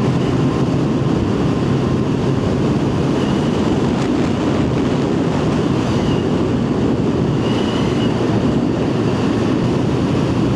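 Yamaha FZ1's inline-four engine running at a steady cruise, largely buried under heavy wind noise on the microphone.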